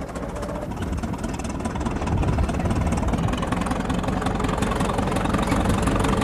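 A crawler tractor's engine running steadily, getting louder about two seconds in.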